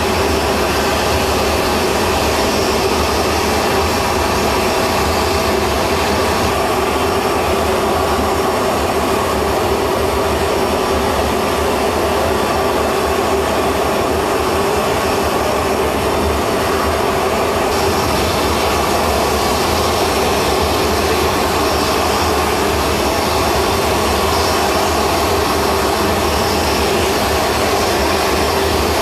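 Jet aircraft engine running steadily, a constant loud rush with a steady whine held through it.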